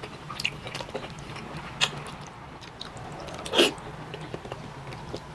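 Close-miked eating sounds of a person eating bulalo (beef shank soup): wet chewing with many small clicks, and one louder short mouth noise about three and a half seconds in, over a low steady hum.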